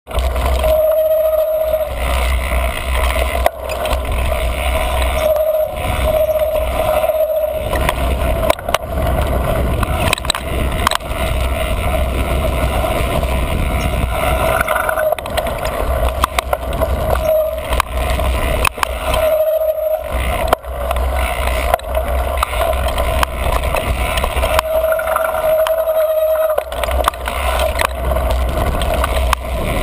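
Mountain bike running down dirt singletrack: steady wind and tyre rumble with frequent knocks and rattles from bumps. The squealy front brake of a Niner MCR mountain bike gives a high, steady squeal several times, each time the rumble drops.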